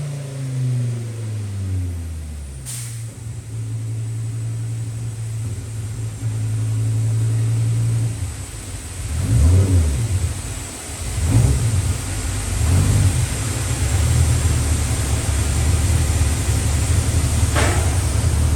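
Dodge Viper V10 race engine on a chassis dyno, its pitch falling as a pull winds down, then running steadily at low speed. In the middle it gives a few brief, uneven throttle blips before settling again.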